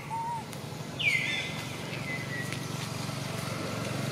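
A bird calls a shrill whistle that sweeps downward and trails into a held note about a second in, with a short, lower arching note just before, over a steady low hum.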